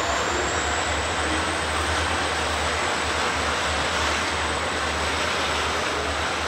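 Grain hopper wagons of a freight train rolling past: a steady rumble and rush of steel wheels on rail, with a thin high tone above it.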